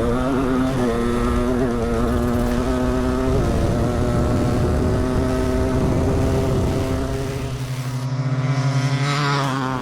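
Big-bore two-stroke dirt bike engines running hard at high revs through a drag-race run, a dense, steady engine sound that shifts a little in pitch partway through.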